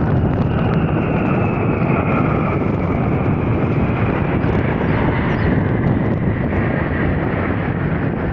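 Jet aircraft flying past, a loud steady rush with a high engine whine that slowly falls in pitch as it passes.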